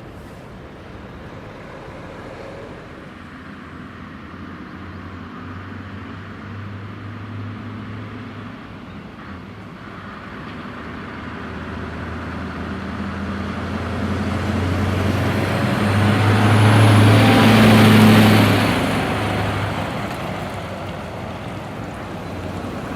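Scania 164L 580 Super truck's V8 engine running through a straight exhaust. The engine note holds steady while it grows louder to a peak about three-quarters of the way through, then fades.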